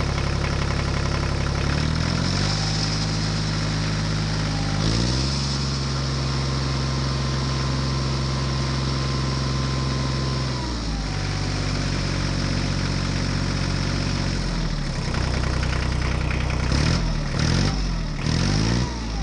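Engine running, its pitch stepping up and down as it revs and settles, with several quick rises and falls near the end.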